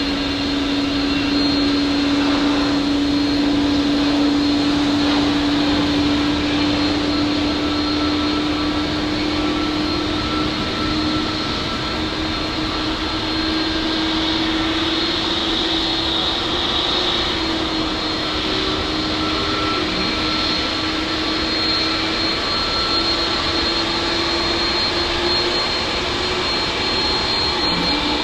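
Airbus A321neo's Pratt & Whitney PW1100G geared turbofan engines running at taxi power as the jet taxis close by. A steady jet noise with a held low tone that drifts slowly up in pitch and a thin high whine above it; the sound grows louder right at the start.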